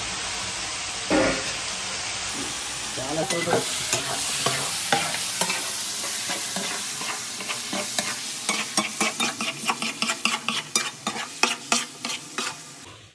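Marinated chicken sizzling as it fries with onions and green chillies in a large metal pot, while a metal spoon stirs it and scrapes against the pot. The scraping strokes come quicker and louder in the second half. A clank about a second in.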